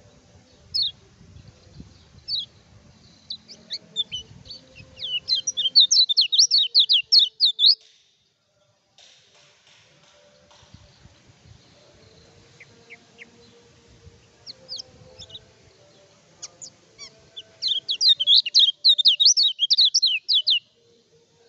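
Kecial kuning (yellow white-eye) singing in two bouts. Each starts with scattered single high chirps and builds into a fast, loud run of rapid notes lasting about three seconds. The bird is singing vigorously without doping, the kind of song used as a lure to set other birds singing.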